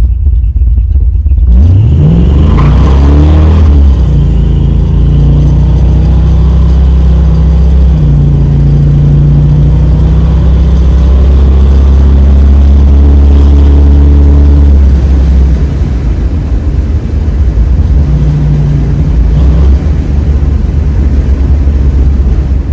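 Big-block V8 of a 1966 Plymouth Belvedere running through Flowmaster 44 series mufflers. About a second and a half in it revs up in a rising pitch, then holds a steady low drone, easing off about fifteen seconds in.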